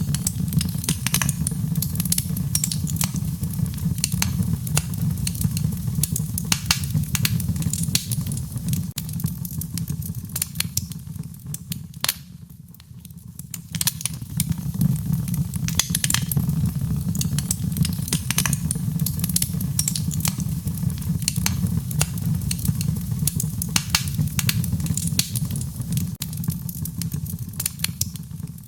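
Wood fire burning with a steady low rumble and frequent sharp crackles and pops, dipping briefly quieter about twelve seconds in.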